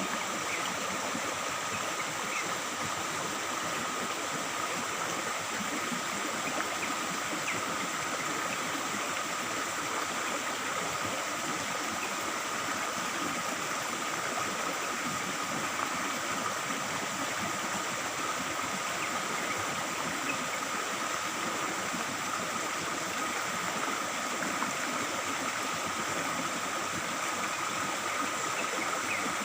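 Stream water trickling and babbling steadily, with a few faint short bird chirps and a steady high thin tone underneath.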